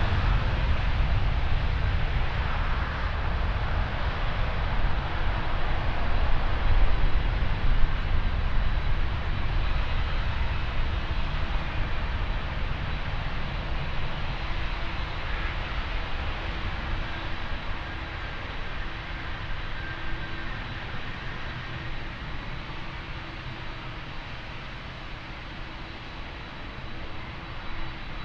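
Jet airliner engine noise, a heavy low rumble that slowly fades as the aircraft moves away.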